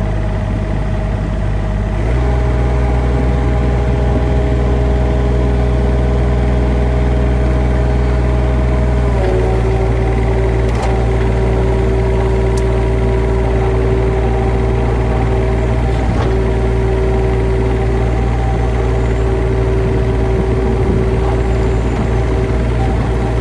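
An engine running steadily. Its note changes and grows fuller about two seconds in, then settles a little lower about nine seconds in.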